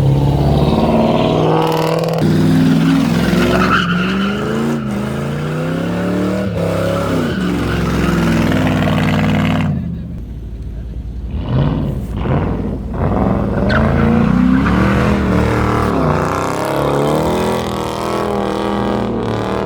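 Muscle car engine revving hard, its pitch rising and falling again and again as the car slides, with tires squealing. The level dips briefly about ten seconds in, then the revving picks up again.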